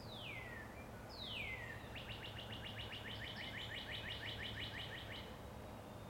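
A songbird singing: two long whistles each sliding downward, then a fast run of short down-slurred notes, about six a second, lasting about three seconds.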